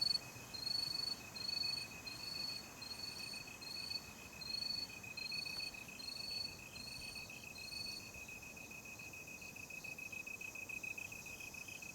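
Night insects calling, cricket-like: a steady high trill runs throughout. A second, higher chirp repeats about every half-second and stops about eight seconds in.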